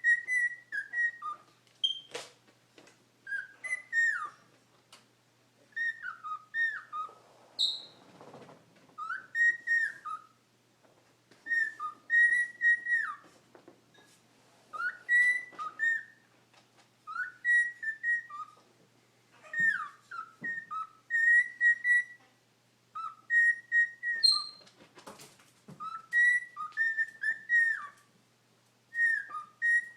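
Cockatiel whistling in short repeated phrases of gliding, rising and falling notes, one phrase every second or two. A few faint clicks and rustles fall between the phrases.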